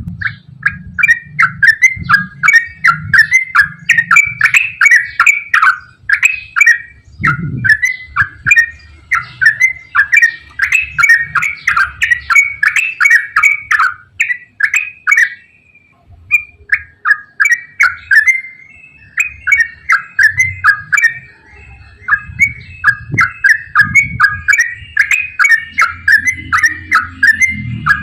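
Yellow-vented bulbul singing a long, fast run of short bubbling notes, breaking off briefly about halfway through before starting again.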